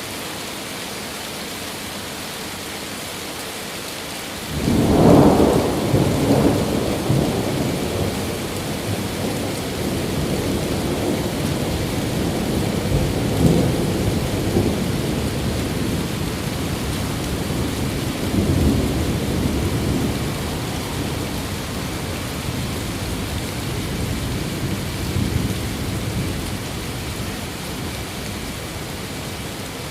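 Steady rain, then a few seconds in a sudden thunderclap breaks into a long rolling rumble of thunder that swells again several times and slowly fades under the rain.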